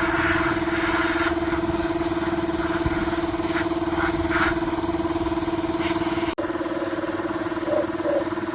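Small engine running steadily at a constant speed, with a strong even hum. It cuts out abruptly for an instant about six seconds in, then carries on the same.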